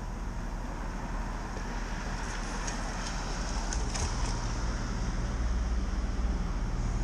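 City traffic on a wet street, heard from a moving bicycle: a steady hiss of road noise over a low rumble, with a few faint high ticks a little past the middle.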